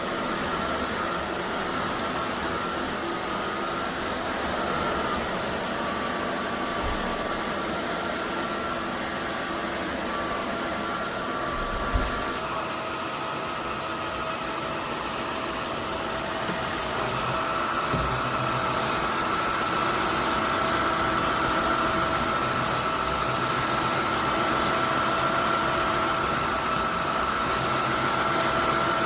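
Roborock F25 ACE cordless wet/dry vacuum-mop running steadily, a motor whine over rushing air. There is a knock about twelve seconds in, and the whine shifts pitch and grows louder from about seventeen seconds.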